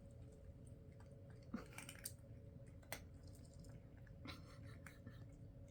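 Cats crunching dry kibble at a food bowl: faint, scattered crunches and clicks a second or so apart, over a low steady hum.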